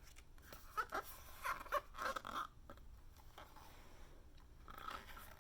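Pages of a picture book being handled and turned: a few soft paper rustles and scrapes in the first half, and another near the end.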